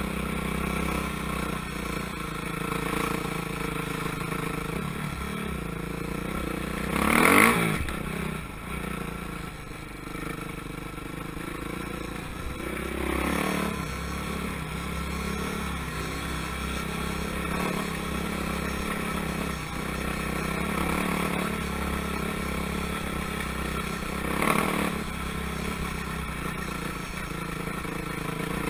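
Motocross motorcycles running around a track, a steady mix of engines. One bike passes close and loud about seven seconds in, and two more pass nearer the middle and near the end.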